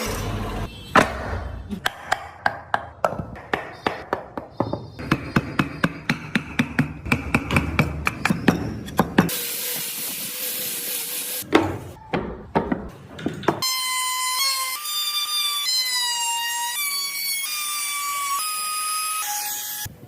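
Hand carving of wood: a chisel or gouge struck again and again with a mallet, about three to four sharp knocks a second, broken by a couple of seconds of scraping hiss. Near the end the tool sounds give way to a simple melody of held notes.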